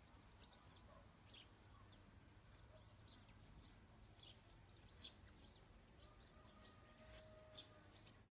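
Faint outdoor birdsong: small birds chirping in many short, high chirps, several a second, over a low background hum, cutting off abruptly at the very end.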